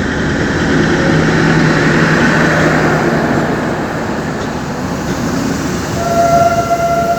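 Train running on the rails: a loud, steady rumble of wheels and carriages. A steady high tone joins in near the end.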